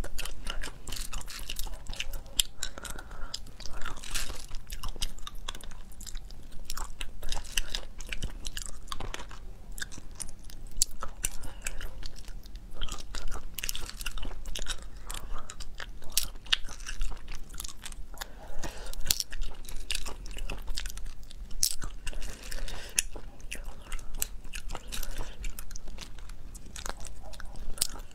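Close-miked mouth sounds of someone eating small sea snails from their shells: irregular wet chewing with many sharp clicks.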